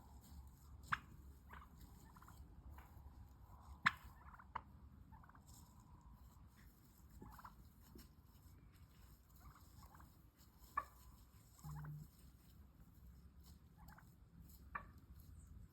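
Turkey clucking and purring: sharp single clucks a few seconds apart, the loudest about four seconds in, with soft rolling purrs between them. A brief low hum sounds about three-quarters of the way through.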